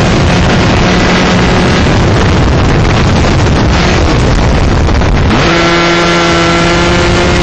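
Single-cylinder two-stroke 125cc shifter kart engine at high revs, heard onboard with heavy wind rush on the microphone. About five seconds in the rush drops suddenly and the engine's note comes through clearly, climbing slowly in pitch.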